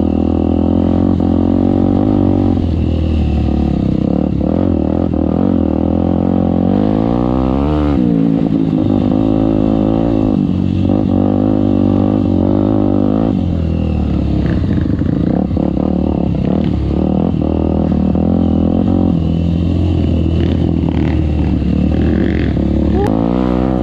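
Trail motorcycle engine running continuously under load, its pitch rising and falling as the rider revs and changes gear.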